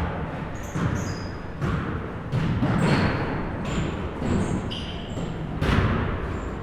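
Basketballs bouncing on a gym floor, several irregular thumps with the loudest near the end, mixed with short high sneaker squeaks on the court.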